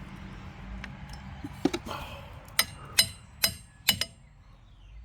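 Metal striking metal: a series of sharp clinks with a short ring, five in all, four of them coming quickly together in the middle.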